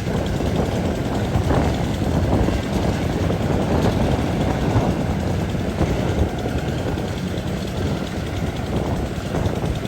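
Rice combine harvester's engine running steadily under load, a dense low-pitched machine noise with no breaks.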